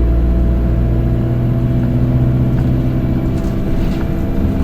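Single-decker bus engine and drivetrain running steadily under way, heard from inside the passenger cabin as a loud, even low drone with a faint steady whine above it.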